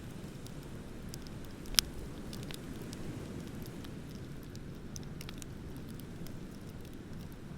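Beach bonfire crackling, with many small scattered crackles and one loud sharp pop a little under two seconds in, over a steady low rushing noise.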